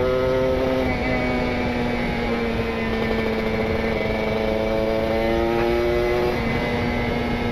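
Kawasaki Ninja RR single-cylinder two-stroke engine running under way through an R9 carbon aftermarket exhaust, tuned rich (PWK28 carburettor, 42 pilot jet, 132 main jet). The engine note holds a steady pitch, stepping down about a second in and again near the end, over wind and road noise.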